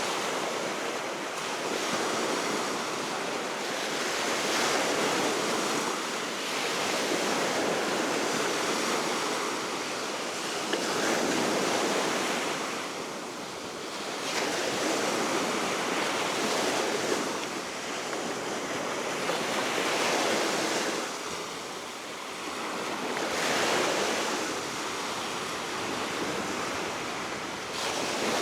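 Baltic Sea surf washing onto the shore, swelling and easing every few seconds, with steady wind.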